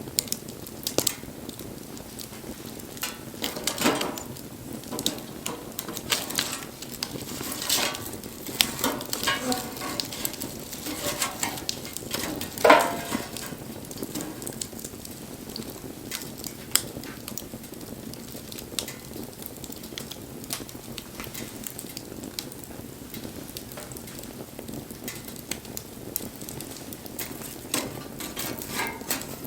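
Wood bonfire crackling and popping over a steady soft hiss, with one loud sharp crack a little before halfway.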